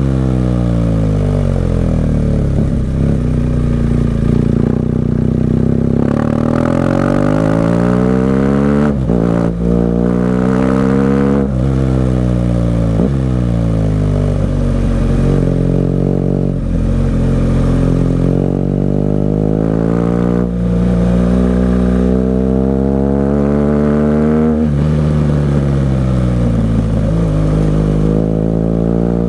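BMW R 1200 GS Adventure flat-twin engine through an aftermarket SC-Project exhaust, accelerating and slowing over and over: the revs climb, then fall away or drop sharply at gear changes and throttle closes, and climb again.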